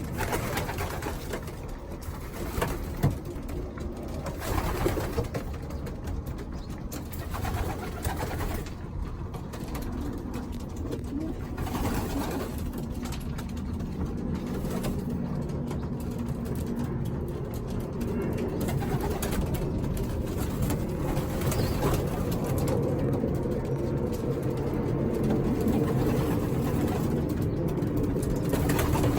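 Racing pigeons cooing, the cooing growing steadier and louder in the second half, with a single sharp click about three seconds in.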